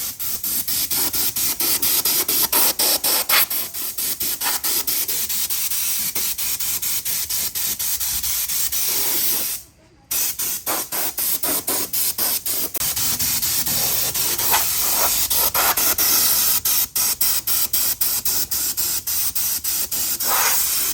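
A loud, steady hiss of a high-pressure air or spray jet with rapid flutters in level. It cuts out for about half a second near the middle, then starts again.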